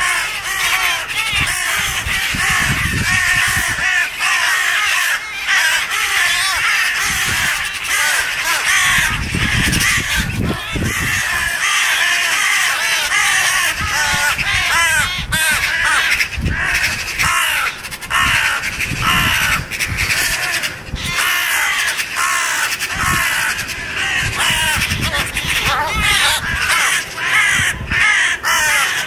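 A flock of jackdaws calling without a break, many harsh, short calls overlapping, the alarm clamour of corvids around a sparrowhawk attack.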